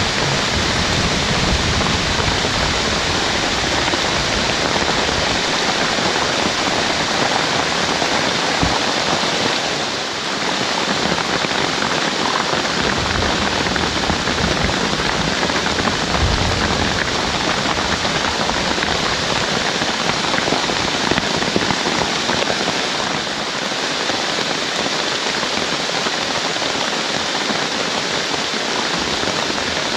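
Heavy rain pouring down steadily, a dense, even hiss, with a few brief low rumbles partway through.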